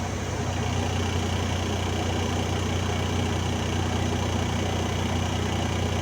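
Diesel engine of a piece of heavy mining equipment running steadily at idle, a low even hum with no change.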